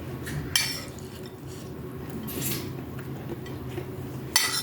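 A spoon scraping against a bowl of fried rice, in three short scrapes about two seconds apart, over a low steady background hum.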